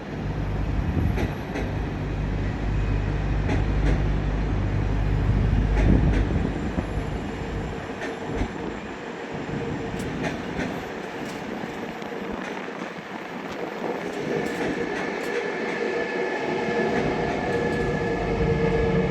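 Train moving through the station: a heavy low rumble with wheel and rail clicks that fades after about eight seconds, then a steady electric whine that builds near the end.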